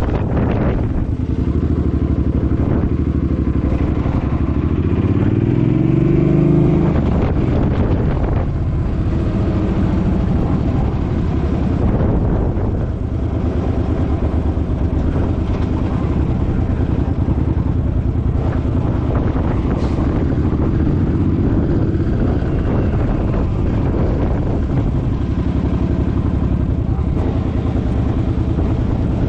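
Suzuki Boulevard M50's V-twin engine running under way. Its pitch rises as it accelerates about five seconds in, drops back about two seconds later, then holds a steady cruising note.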